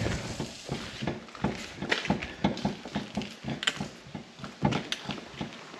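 Hands rubbing and pressing a plastic hood protector down onto a truck's hood, a run of irregular quick taps and rubbing.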